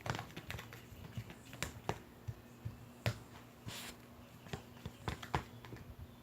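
Slime being squeezed and poked by hand, making irregular sticky clicks and small pops. There is one longer squish a little past halfway.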